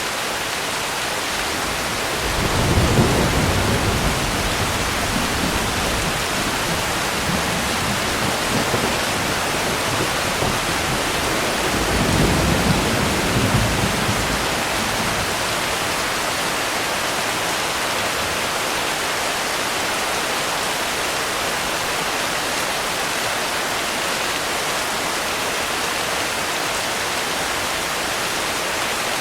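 Steady rain falling, an even hiss, with two low rumbles of thunder, one about two and a half seconds in and one about twelve seconds in.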